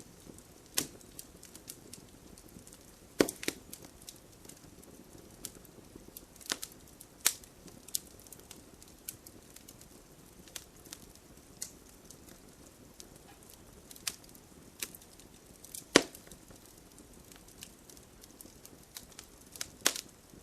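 Campfire burning, wood crackling with irregular sharp pops and snaps over a soft steady hiss; the loudest pops come about three seconds in, around seven seconds and near sixteen seconds.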